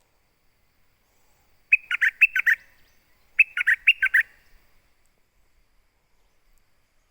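A songbird calling for a mate: two short, quick phrases of four or five notes each, about a second and a half apart.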